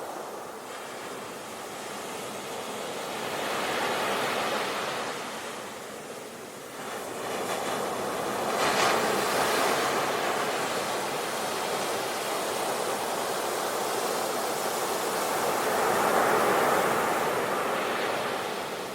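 Ocean waves breaking on the shore, the surf surging and receding in slow swells, with a sudden louder break about nine seconds in and another swell near the end.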